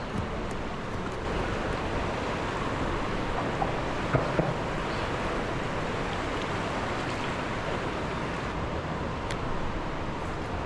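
Steady rushing of flowing river water, with a few light knocks about four seconds in.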